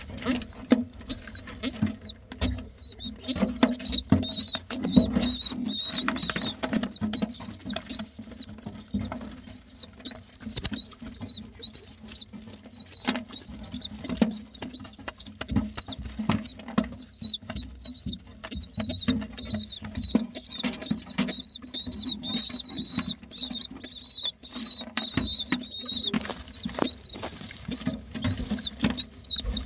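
Baby pigeons (squabs) squeaking insistently, a run of short high-pitched squeaks about two a second, as they beg to be fed, with scuffling and small knocks underneath.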